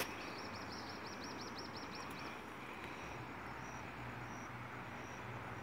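A bird calling: a quick run of about ten high chirps, about five a second, then single high notes every half second or so, over a steady low hum.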